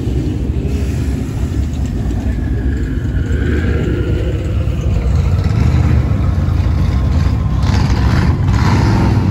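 Twin-turbocharged 2019 Ford Mustang GT's 5.0-litre V8 running at low throttle with a Corsa exhaust, loud and low-pitched as the car creeps away down the lane; it grows louder over the last few seconds.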